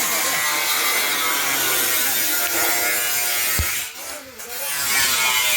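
A power tool running, breaking off about four seconds in and starting again.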